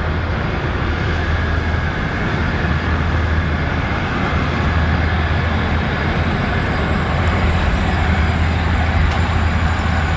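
Jet airliner engines running, a steady loud rumble with a rushing hiss over it and a faint high whine that comes in about halfway through.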